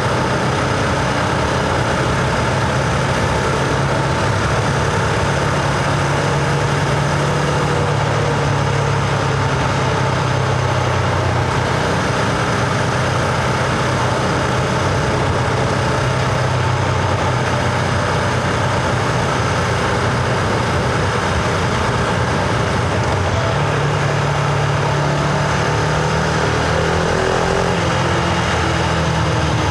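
Husqvarna Vitpilen 701's single-cylinder engine running under way at fairly steady revs, with wind and road noise. The engine note rises slightly about two-thirds of the way in.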